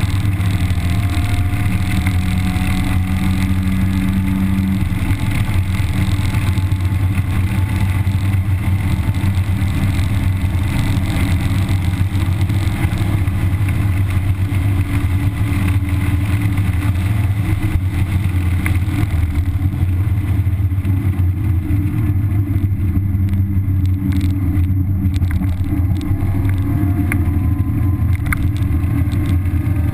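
1991 Mazda Miata's stock-exhaust 1.6-litre four-cylinder engine running steadily under load at track speed, heard from inside the cabin along with wind and road noise.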